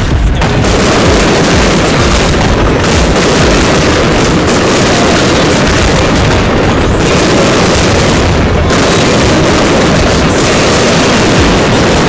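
Fireworks display: rockets and shells going off in rapid succession, their explosions running together into one loud, continuous din.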